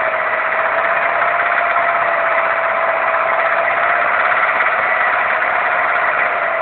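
Daewoo Nexia petrol engine running steadily with a knock that the owner puts down to a worn piston pin.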